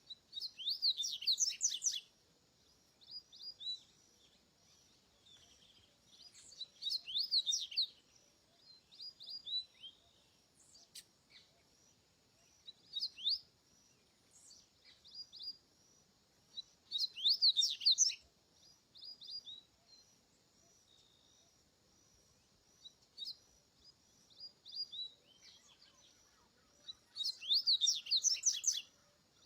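Coleiro (double-collared seedeater) singing: short phrases of quick, sweeping high notes, repeated every few seconds with pauses between.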